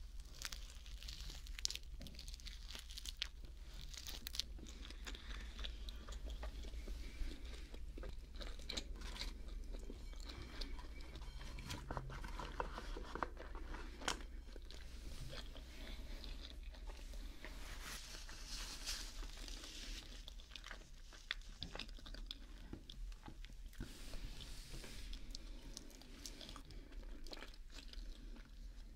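Close-up mouth sounds of someone chewing a mac and cheese sandwich: soft crunches and many small wet clicks as the bread, macaroni and cheese are chewed, picked up on a binaural microphone.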